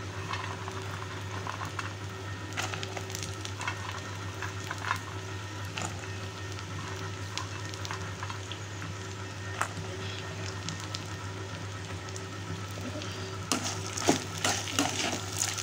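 Mango peel, urad dal, dried red chillies and fresh coconut pieces sizzling in oil in a metal kadai, with scattered small pops. Near the end a spatula scrapes the pan as it stirs them.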